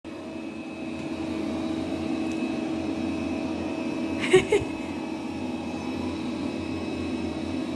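Robot vacuum cleaner running with a steady hum and whine. Two short, louder sounds come about halfway through.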